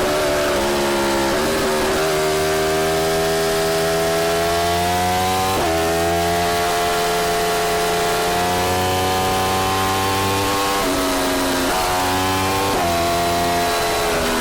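Yamaha R1 inline-four with an Akrapovic exhaust running under way. Its pitch climbs steadily and drops sharply several times, most clearly about six seconds in and around eleven to thirteen seconds in.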